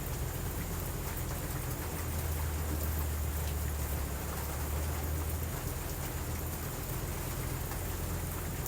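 Steady rain, with a low rumble of distant thunder swelling about two seconds in and dying away after about five seconds.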